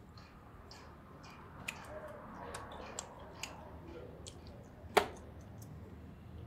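Close-up mouth sounds of someone chewing meat: a scatter of small wet clicks and smacks, with one sharp, much louder click about five seconds in.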